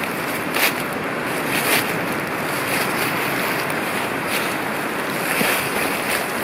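Steady rushing noise, like wind, with a few faint brief clicks.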